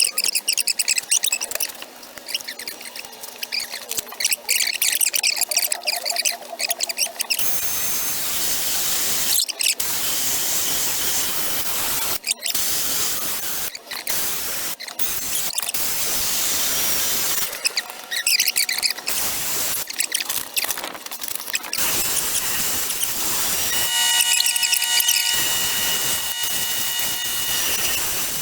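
High-speed rotary grinding tool cutting into an aluminum intake manifold while porting it, a high-pitched grinding that stops and starts several times, with a steady whine for a couple of seconds near the end.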